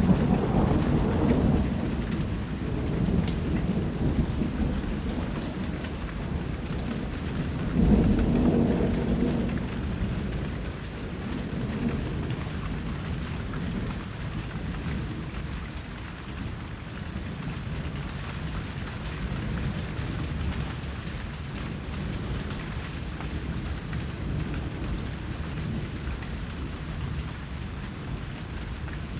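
Steady rain with two low rolls of thunder: one at the start, and a louder one about eight seconds in that fades over a couple of seconds.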